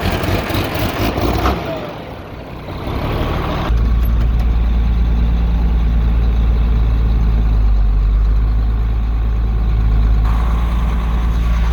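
Farm tractor engine running; about four seconds in, a heavy, steady low drone sets in suddenly and holds.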